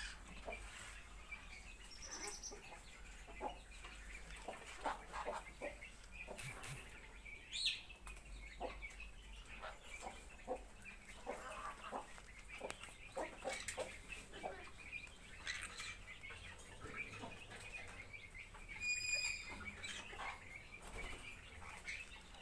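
Several birds calling throughout, short calls and chirps, with scattered clicks and knocks; a run of repeated high notes near the end.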